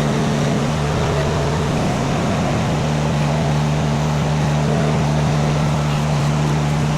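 Mini skid steer's engine running steadily at a constant speed, a continuous low drone.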